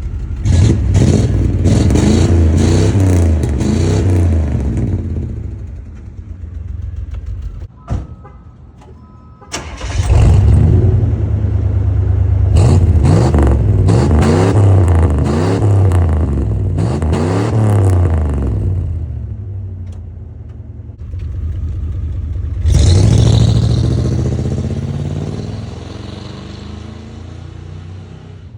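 1992 Buick Roadmaster's 5.7-litre V8 with its catalytic converters removed, running through uncatalysed exhaust and revved repeatedly in rising and falling blips. The sound drops low for about a second and a half around eight seconds in, then the revving resumes. It settles lower near twenty seconds, with one more rev a few seconds later.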